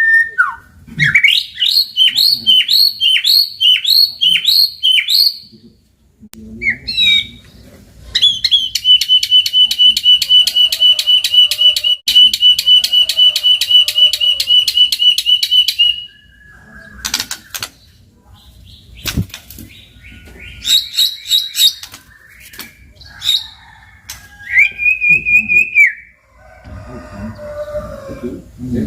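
White-rumped shama singing a varied song: a run of about eight quick down-slurred notes, then a long fast rattling trill held for about eight seconds, then shorter whistles and chips.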